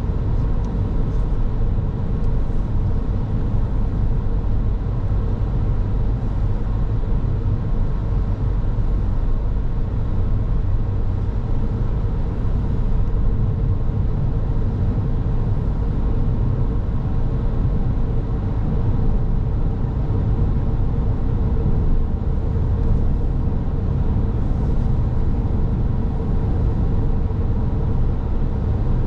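Car driving at a steady pace: continuous low tyre and engine rumble with a faint steady hum over it.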